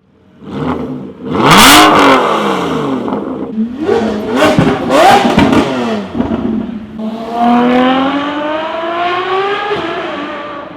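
V12 supercar exhausts revving and accelerating in a series of short clips, the pitch rising and falling with each rev. From about seven seconds in, one car accelerates hard in a long climb in pitch that fades away at the end.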